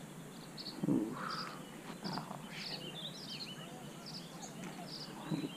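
Birds chirping over and over in short high calls, with some quick warbling chirps later on, over a steady outdoor hiss. A brief low thump about a second in is the loudest moment.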